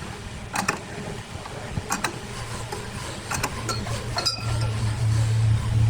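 Scattered light clinks and knocks over a low motor hum that grows louder over the last second or so.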